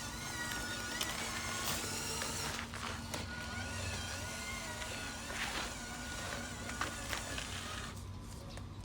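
Small electric motors and plastic gearboxes of a radio-controlled construction toy whining as it runs, with the pitch wavering and scattered clicks and knocks.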